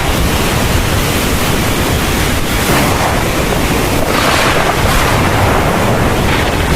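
Heavy thunderstorm rain pouring steadily, a dense hiss over a low rumble, swelling a few times, most strongly about four seconds in.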